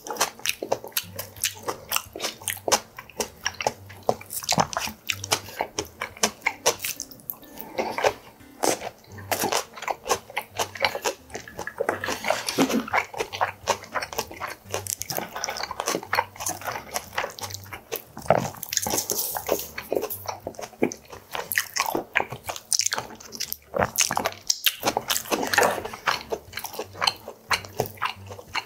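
Close-miked chewing and biting of boiled pork belly (bossam) and crunchy napa cabbage kimchi, a steady run of wet crunches and mouth clicks.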